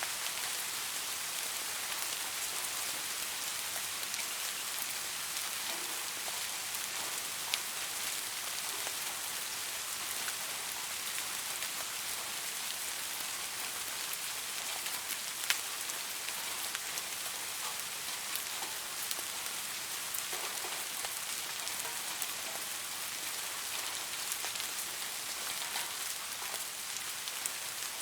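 Steady rain falling on a surface, an even hiss with individual drops ticking through it and a couple of sharper single drips.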